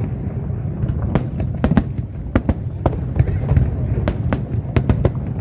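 Fireworks display going off: sharp cracks and bangs at irregular spacing, about three or four a second, over a continuous low rumble of shells bursting.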